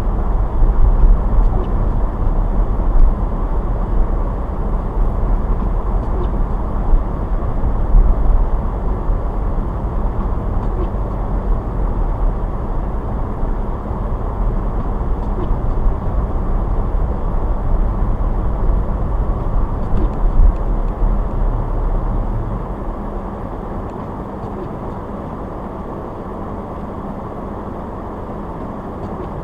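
A car driving: steady road and engine noise, heavy in the low end. It drops to a lower, even level about three quarters of the way through.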